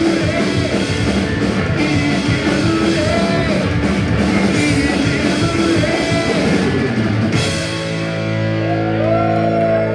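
Punk rock band playing live: drum kit, guitars and singing at full volume. About seven and a half seconds in the drums stop and the guitars ring out on a held chord as the song ends.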